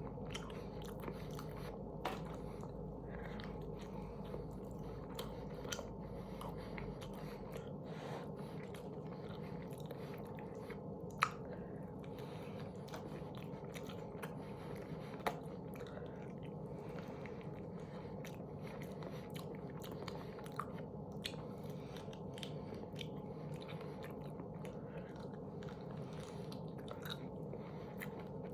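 A person chewing food close to the microphone, with a few short, sharp clicks of biting now and then.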